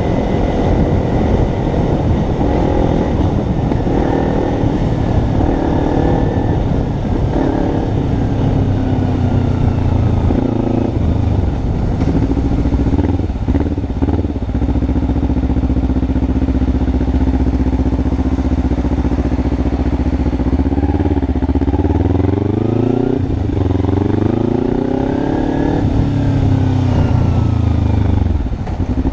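Kawasaki Ninja 300's parallel-twin engine running under way. Its pitch drops about twelve seconds in, holds steady, then climbs several times in a row near the end as the bike accelerates through the gears.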